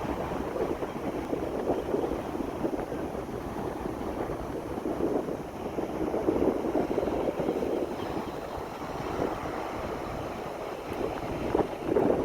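Wind buffeting the microphone over the wash of water: a steady rough rush that swells in gusts now and then.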